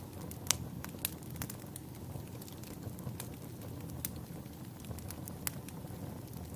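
Wood logs burning in a fireplace: a steady low rumble of flames with irregular sharp crackles and pops, the loudest pops about half a second and a second in.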